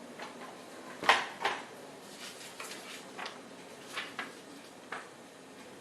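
Several brief soft knocks and clicks, about six over a few seconds, the first about a second in being the loudest.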